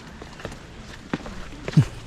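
Footsteps going down stairs: a few separate steps, the loudest near the end.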